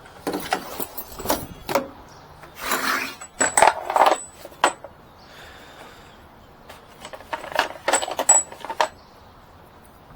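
Small metal parts and tools clinking and clattering in irregular bursts, several with a brief high ring, with a quieter stretch about midway.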